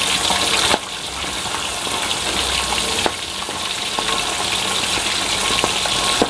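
Catfish frying in hot oil in an aluminium wok: a steady sizzle that drops a step in level about a second in. A metal spatula scrapes and taps against the wok a few times.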